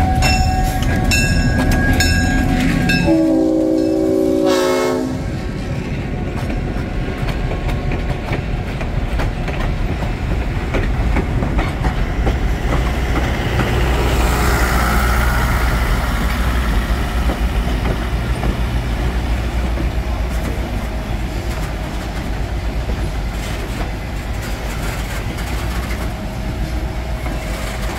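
Diesel-hauled passenger train passing close by: a bell rings with even strokes until about three seconds in, the horn sounds one short chord-like blast, and then the coaches roll past with a steady low rumble and wheel clatter on the rails.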